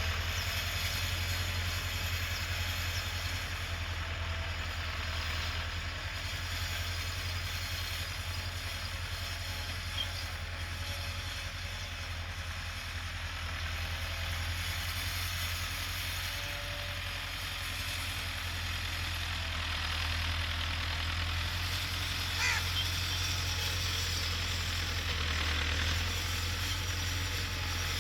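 Tractor engine running steadily in the field, a constant low hum. There is a brief chirp about two-thirds of the way in.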